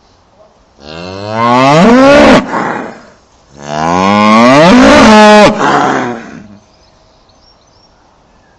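A cow mooing twice: two long, loud calls, the second one longer.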